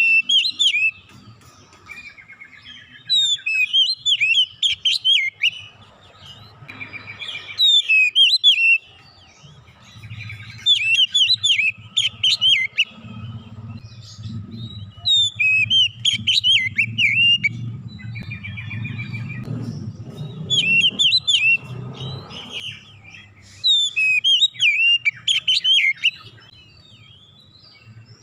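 Oriental magpie-robin (kacer) singing: about seven loud bursts of rapid, varied whistled and chattering phrases, each a couple of seconds long with short gaps between, over a faint low hum.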